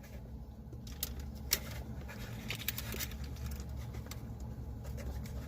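Small clicks and light rattles of a takeout sauce cup and wing box being handled as a chicken wing is dipped in ranch, over a low steady hum.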